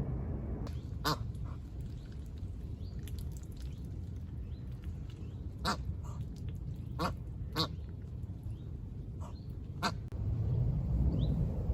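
Ducks quacking: about six short, separate quacks spread over several seconds, with faint high chirps between them and a steady low rumble underneath.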